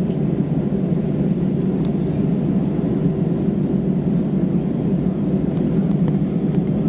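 Steady low cabin rumble inside an Airbus A320-214 on the ground after landing, its CFM56-5B engines at idle, with a few faint clicks.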